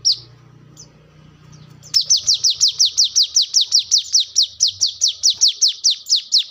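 Brown-throated sunbird (kolibri kelapa) calling: a couple of single sharp high notes that slur downward, then about two seconds in a fast, even run of the same falling notes, roughly eight a second.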